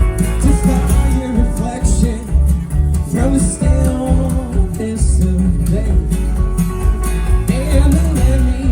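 A live country band playing loudly, with guitar, drums and a heavy low end, and a gliding lead line, sung or played, over the top.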